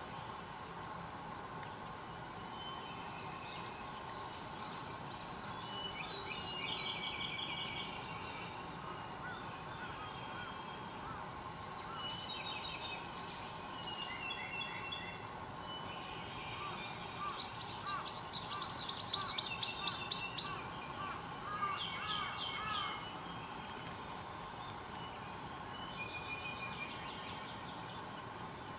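Several wild songbirds calling and singing, with short high repeated notes and trills from different birds overlapping; the loudest is a rapid run of quick falling notes about two-thirds of the way through. A faint steady hum runs underneath.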